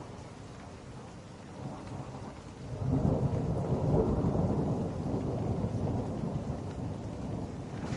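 Steady rain with a low rumble of thunder that swells up about three seconds in and slowly rolls away.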